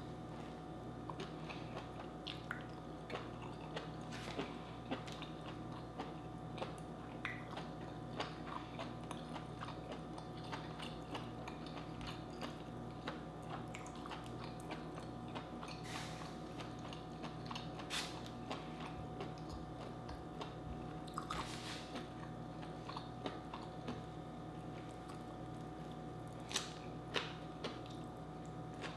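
A person chewing and biting vegetables close to the microphone, with many small crunches and clicks and a few louder ones near the end.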